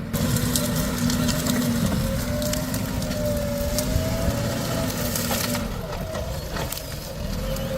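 JCB 3DX backhoe loader's diesel engine running steadily, with scattered knocks and clatters from the machine working.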